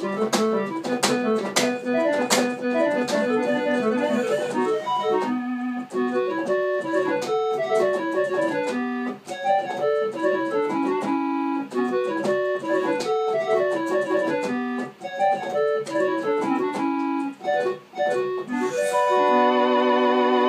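Old electronic keyboard on its default preset voice, playing a fast rock melody in quick single notes. Near the end it settles on a held chord with a wavering vibrato, which then cuts off.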